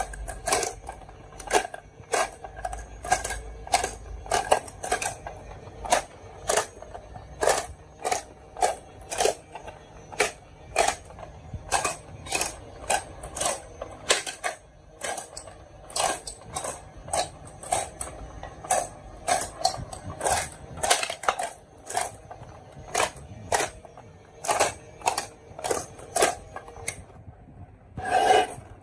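Marbles clacking down a marble run: a steady stream of sharp, irregular clicks, one to three a second, each with a brief ring.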